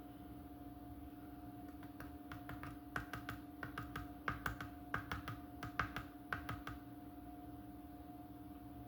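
A quick, irregular run of light clicks and taps, most of them in the middle few seconds, over a steady electrical hum.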